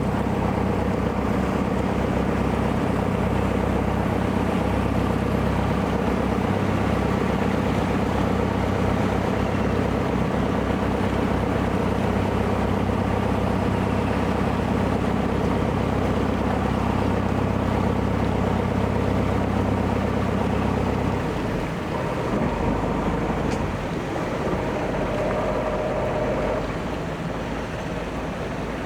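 A harbour ferry boat's engine running steadily. About two-thirds of the way in the engine hum drops away, leaving the splash of water and wind.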